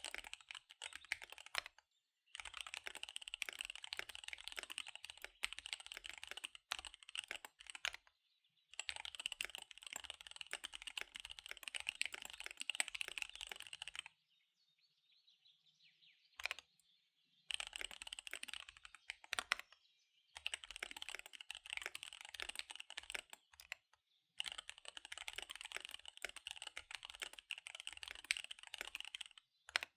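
Fast typing on a KBD75 V3 mechanical keyboard with SP-Star Dark Magic Girl tactile switches and DSA keycaps: dense runs of key clacks several seconds long, broken by short pauses and a longer pause about halfway through.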